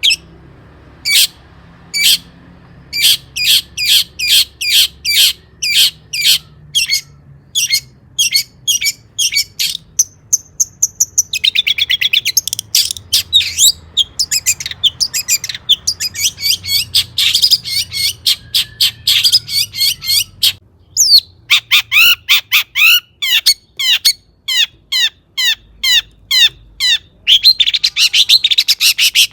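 Long-tailed shrike singing loudly: a rapid run of sharp, downward-slurred notes, broken by dense, fast chattering passages about a third of the way in, around the middle, and near the end.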